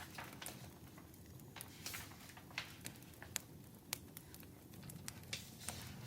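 Wood fire crackling: a low, steady rumble with irregular sharp pops and snaps every half second or so.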